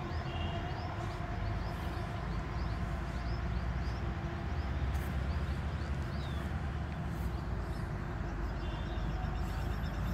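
A small bird repeating short high chirps about twice a second over a steady low rumble, with a couple of brief whistled notes near the start and again near the end.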